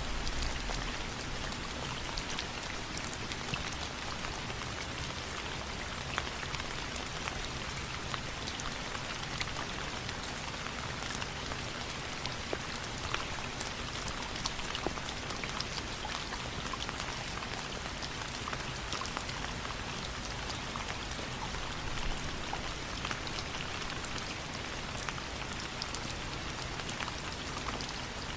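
Steady rain hissing, with many small sharp ticks and crackles scattered through it.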